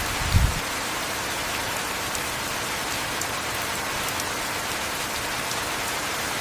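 Heavy rain falling steadily, with scattered drop ticks and a brief low thump about half a second in.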